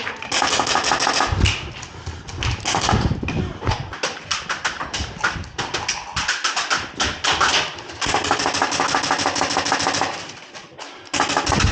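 Electric airsoft guns firing on full auto: several bursts of rapid clicking, each lasting one to two seconds, some with a whine under the clicks.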